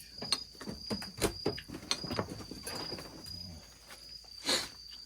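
Crickets chirping steadily in the background, with scattered sharp clicks and knocks of utensils.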